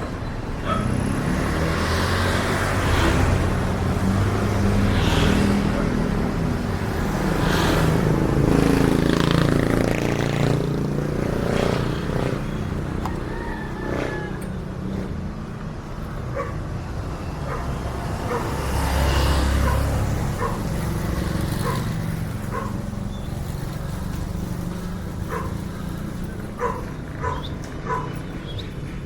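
Road traffic: a steady low rumble of vehicles, swelling as they pass, loudest about a third of the way in and again past the middle. A few short clicks and knocks come near the end.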